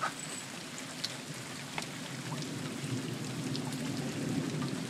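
Hailstorm: a steady hiss of rain and hail falling, with a few sharp ticks scattered through it.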